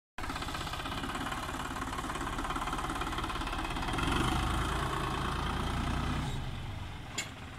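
Tümosan 65-80N tractor's diesel engine running, getting louder and deeper about four seconds in and easing off again near the end, with a single sharp click shortly before the end.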